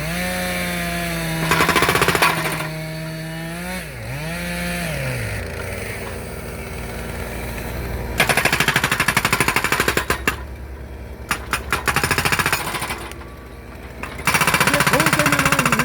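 Hydraulic breaker on a Kubota U35S mini excavator hammering in rapid strokes as it splits logs for firewood, in bursts: briefly about 1.5 s in, a long run at about 8 to 10 s, a few short bursts around 11 to 12 s, and again from about 14 s on. Between the bursts the machine runs with a steady pitched hum that dips about 4 s in.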